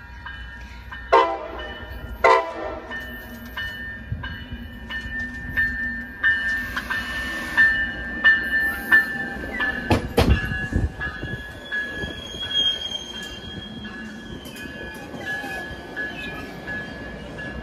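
Coaster commuter train approaching and rolling past along the platform: two short, loud horn blasts about one and two seconds in, then the bilevel cars passing with wheel squeal and a sharp thump about ten seconds in. A steady high ringing tone runs underneath.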